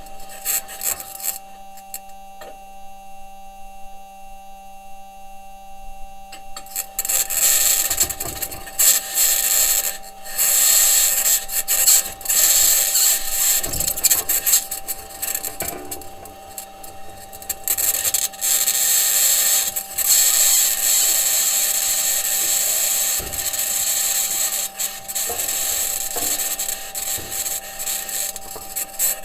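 Perseverance Mars rover driving: its wheels and suspension grind and scrape over the crater floor, with a harsh, high-pitched scraping noise and a steady hum underneath. It is quieter for the first few seconds, then the scraping surges loud from about a quarter of the way in, with a few separate knocks.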